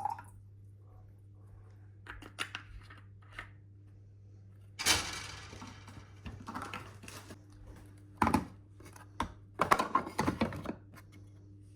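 Handling of the coffee machine and its parts: a few light clicks, a louder clatter about five seconds in, then more knocks and a rattling clatter near the end, over a faint steady low hum.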